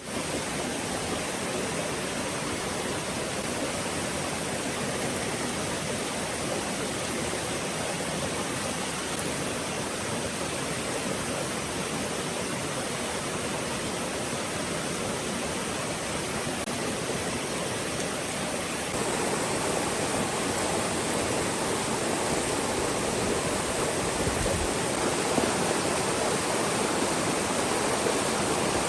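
Steady rushing of water in a forest stream, a little louder and fuller about two-thirds of the way through.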